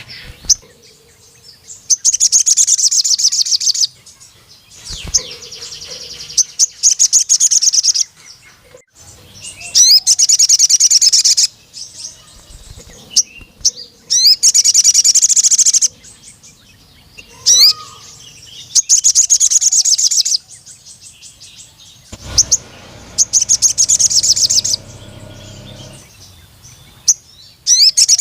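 A male sogon (ruby-cheeked sunbird) singing. It repeats loud, high, rapid chattering trills, each about two seconds long and coming every few seconds, with soft single chips in the gaps.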